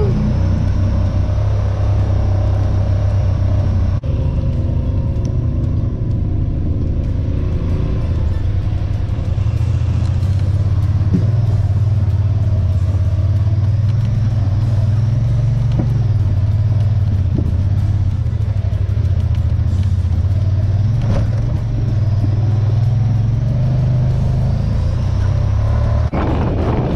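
Honda Pioneer 1000 side-by-side's engine running steadily while the machine is driven along a trail, its low drone shifting up and down in pitch every few seconds.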